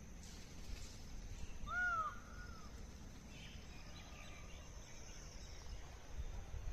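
A bird gives a single arching call about a second long, around two seconds in. Fainter chirps of other birds follow over a steady high hiss and a low rumble.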